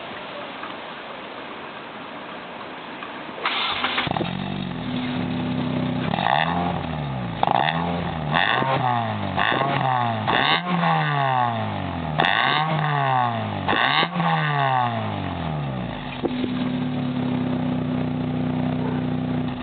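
Car engine breathing through headers and a straight pipe with no catalytic converter, giving a loud, raw exhaust note. It fires up about three and a half seconds in, idles, then is blipped up and down several times in quick revs before settling back to a steady idle.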